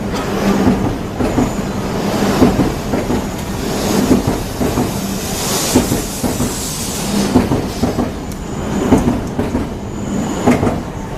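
E3 series Shinkansen train moving at low speed, its wheels clattering over rail joints in a regular beat, one group of knocks about every one and a half to two seconds as each car rolls by. A brief high squeal from the wheels comes twice, near the start and near the end.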